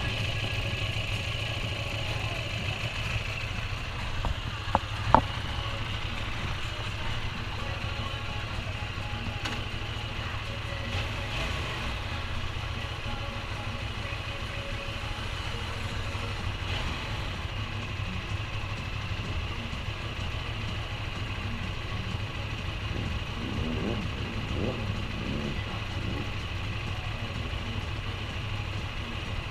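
QJ Motor SRT 800's parallel-twin engine idling steadily, with a couple of sharp clicks about five seconds in.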